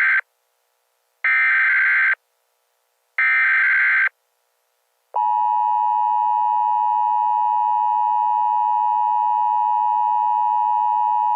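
Emergency alert data bursts, three raspy electronic blasts of about a second each, followed about five seconds in by the steady single-tone NOAA Weather Radio warning alarm. Together they signal that an emergency warning message is about to be broadcast.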